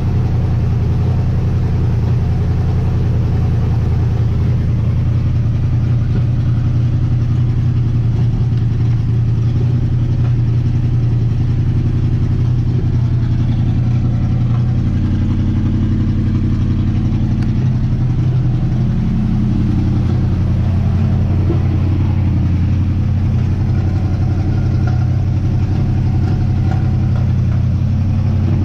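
1958 Dodge Coronet Lancer's V8 engine idling steadily.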